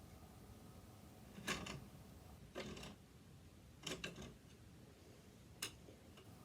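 A few faint, short clicks and light clatters at irregular intervals, with a double click about four seconds in: small parts and tools being handled while a sewing machine is taken apart.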